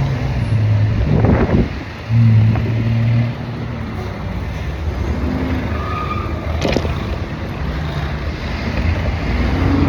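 Motor vehicle traffic close by: engines running and passing, a steady low rumble with a louder engine hum about two seconds in, and a few short clicks.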